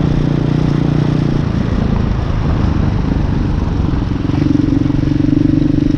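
Hawk 250 dirt bike's single-cylinder four-stroke engine running under way. Its note holds steady, breaks up about a second and a half in, then settles at a higher pitch near the end.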